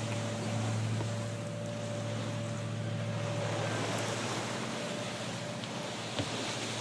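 A sailing yacht under way: wind and water rush over the hull, with a steady low hum underneath.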